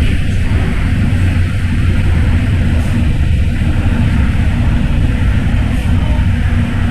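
MTR M-Train electric multiple unit running at speed through a tunnel, with a steady, loud low rumble of wheels and traction equipment.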